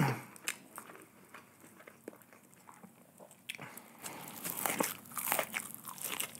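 A crunchy bite into a fried, breaded chicken nugget dipped in cheese sauce, about three and a half seconds in, followed by crunchy chewing.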